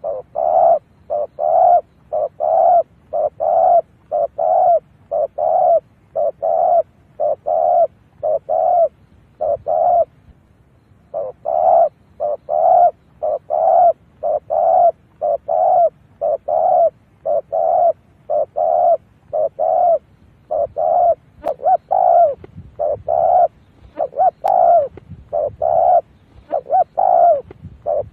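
Spotted dove cooing: a long run of short, low coos, about two a second, with a brief break about a third of the way through. It is a male's call of the kind played as a lure to draw wild spotted doves in.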